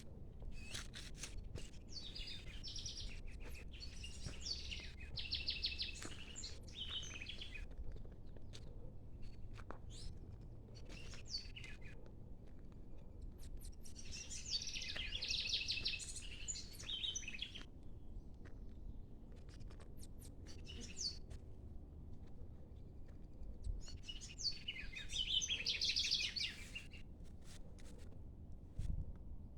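Birds singing and chirping in three bouts of rapid high phrases, near the start, around the middle and near the end, over a steady low rumble.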